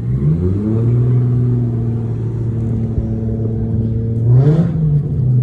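Car engine running: its note climbs over the first second and holds steady, then a quick rev blip rises and falls near the end.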